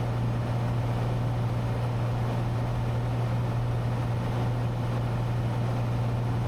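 Cessna 182T's six-cylinder Lycoming IO-540 engine and propeller droning steadily in flight, heard from inside the cabin as a constant low hum over a wash of engine and wind noise.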